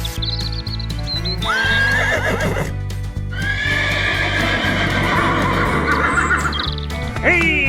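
Horse whinnying twice, a short whinny about one and a half seconds in and a longer one from about three seconds in, over background music with a steady beat.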